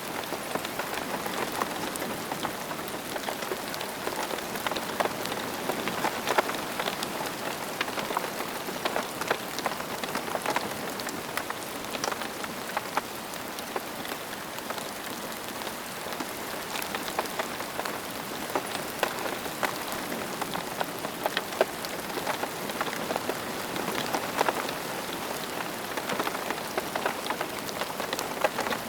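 Steady rain falling on a surface, an even patter with many distinct individual drops ticking sharply through it.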